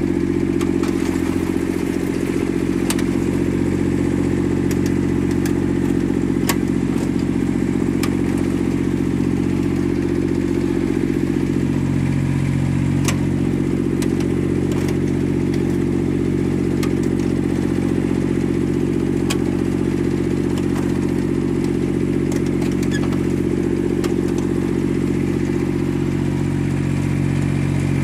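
Yanase IZ-Y11-17HD snow blower's three-cylinder diesel engine running at a steady speed, with scattered light clicks.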